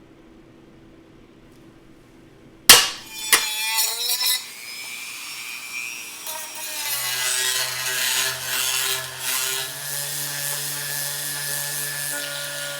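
A loud sharp metallic clack, then a power tool sanding and grinding the edges of 18-gauge sheet-steel pieces, running steadily with a grating rub over a motor hum.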